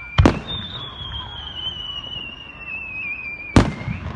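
Aerial fireworks shells bursting: two sharp bangs, one just after the start and one near the end. Between them a high thin whistle slowly falls in pitch.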